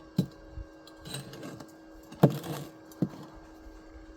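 Three sharp knocks, the loudest about two seconds in, over a steady machine hum.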